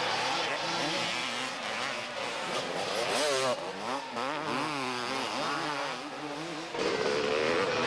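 Several two-stroke 250cc motocross bikes racing, their engines revving with the pitch rising and falling over and over, louder near the end.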